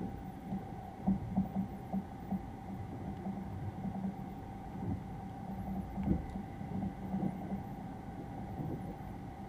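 Interior of a Sunrise Izumo sleeper train (285-series electric multiple unit) running, heard inside a compartment: a steady rumble with a constant hum, and light knocks in the first few seconds and again around six seconds in.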